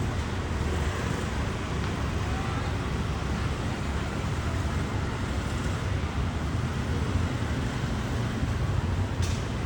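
Steady city road-traffic noise, a continuous low rumble and hiss, with one short click near the end.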